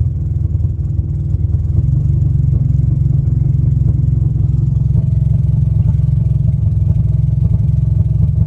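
Nissan VQ-series V6 engine running steadily at idle, a low, fast-pulsing exhaust note with no change in speed. The owner suspects a leaking rear VVT solenoid is causing a vacuum leak that throws off the idle.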